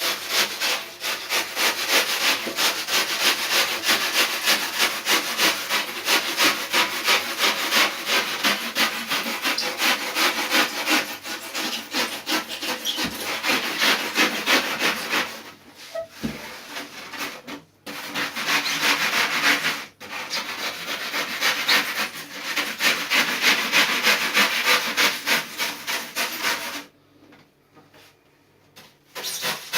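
Quick back-and-forth hand strokes, about three a second, rasping across cured poured foam in a surfboard repair, by sawing or sanding. There are brief pauses in the middle, and the strokes stop near the end.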